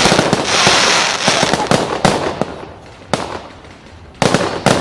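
Fireworks display: a loud bang at the start followed by about a second of dense crackling, then a run of separate sharp bangs, with two more close together near the end.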